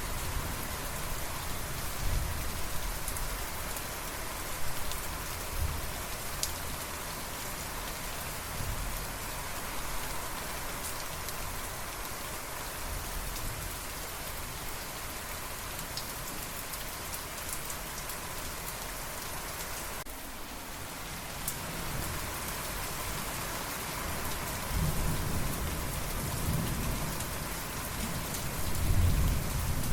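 Steady rain falling, with low rolling thunder rumbling underneath that swells in the last few seconds.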